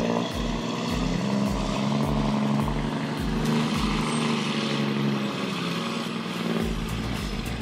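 Engine of a piece of heavy machinery running steadily, its pitch wavering slightly, with a regular low thump about twice a second.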